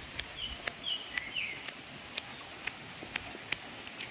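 Rural ambience: a steady high-pitched insect drone, with a bird giving a quick run of short high chirps and a few falling notes in the first second and a half. Sharp clicks come every half second or so.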